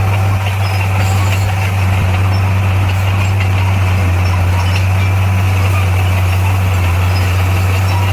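Heavy diesel engine of earth-moving equipment running steadily at a constant speed, a deep even drone.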